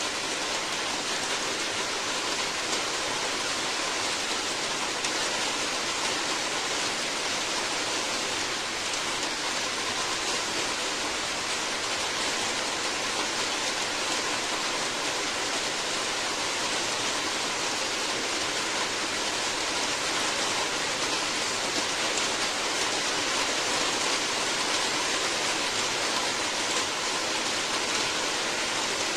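Steady heavy rain, an even hiss of falling water that keeps a constant level throughout.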